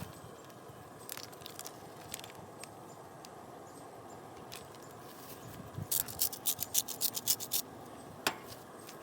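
Scattered light clicks and scrapes over a steady outdoor background, with a quick run of about ten sharp clicks starting about six seconds in.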